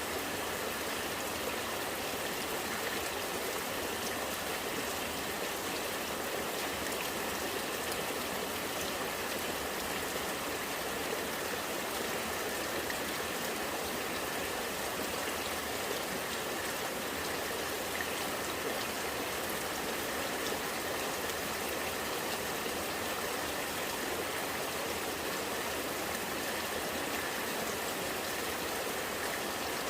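Rainwater running and gurgling steadily, with rain falling.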